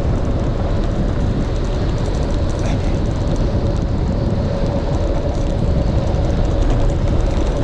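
Steady road noise while riding: a dense rush of wind on the microphone with a constant hum underneath.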